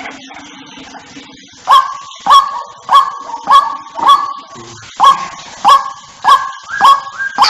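White-breasted waterhen (ruak-ruak) lure call: a series of about ten short, harsh notes, evenly spaced a little under two a second, starting about a second and a half in.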